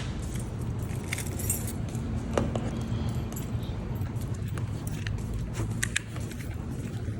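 Nissan VQ35DE 3.5-litre V6 idling roughly, still misfiring on cylinder 3, with scattered light metallic clicks and jingles.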